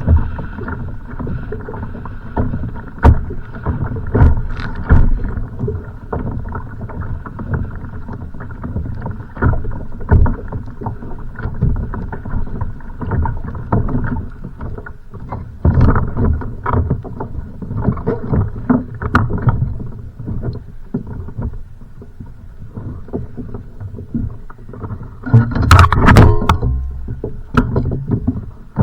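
Choppy, wind-driven waves slapping against a kayak's hull, with many irregular knocks and thuds, and a louder burst of clattering hits near the end.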